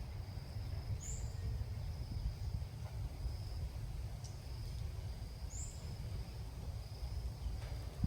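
Outdoor ambience: a faint steady insect whine, two short high bird chirps about a second in and past the middle, and a constant low rumble underneath.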